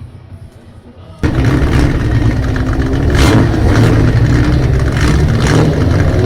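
Nissan Skyline C10 (Hakosuka) with a loud aftermarket exhaust, its engine running hard and being blipped several times. The exhaust sound cuts in abruptly about a second in.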